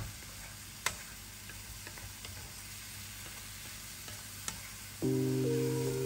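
Sliced mushrooms sizzling in a frying pan as a wooden spatula stirs them, knocking sharply against the pan twice. Background music comes in about a second before the end and is louder than the frying.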